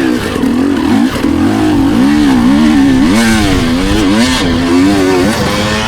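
Dirt bike engine revving up and down again and again as the throttle is opened and closed, with several quick rises and falls in pitch in the second half.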